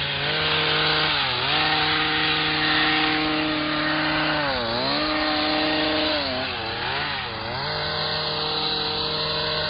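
Hedge trimmer's small engine running at high revs, dropping briefly and revving back up about four times while shrubs are cut.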